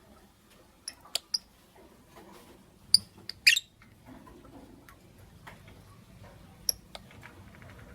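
Lovebirds giving short, sharp, high-pitched chirps at irregular intervals: a quick few about a second in, a louder pair around three to three and a half seconds in, and two more near seven seconds.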